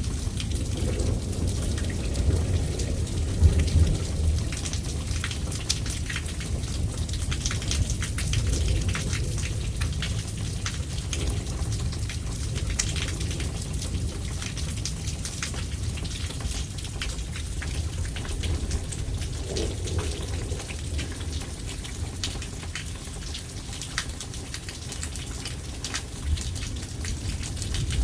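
Thunderstorm rain falling steadily, with many close drops ticking, over a continuous low rumble.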